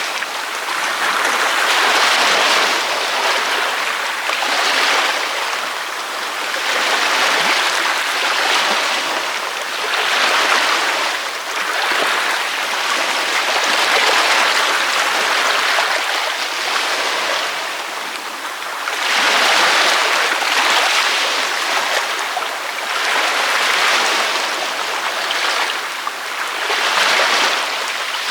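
Ocean surf washing onto a beach: a continuous hiss of breaking and receding water that swells and eases every few seconds.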